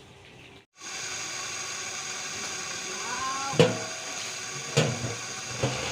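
After a brief dropout, a steady hissing rush of noise, broken near the end by three sharp knocks about a second apart.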